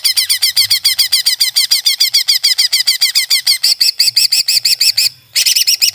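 Cucak ijo (greater green leafbird) singing a fast run of sharp repeated chirping notes, about nine a second, breaking off briefly about five seconds in and then starting again.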